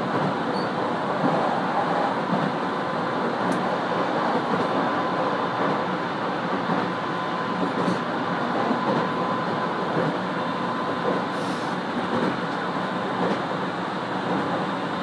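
Steady running noise inside an Aoimori Railway 701 series electric train at speed: wheels rolling on the rails with a constant rumble, and a faint steady high tone held throughout.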